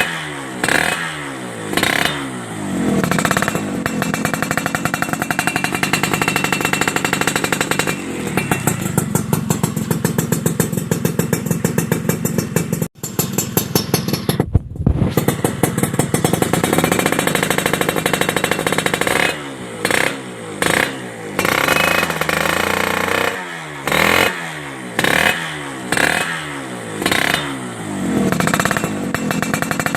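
Suzuki Satria motorcycle engine through a WRS aftermarket racing exhaust, being revved in short repeated throttle blips, then held at high revs for several seconds in the middle with a brief drop about 13 seconds in, before going back to quick blips.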